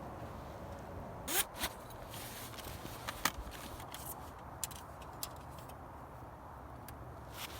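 Light handling sounds over a faint steady background: a quick rasp a little over a second in, then a few sharp clicks and small scrapes.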